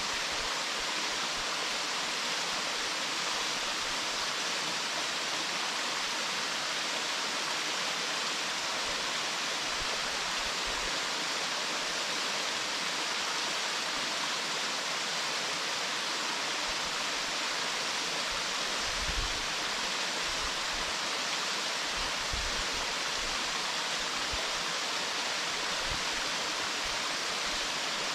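Waterfall pouring steadily, a continuous dense rush of falling water.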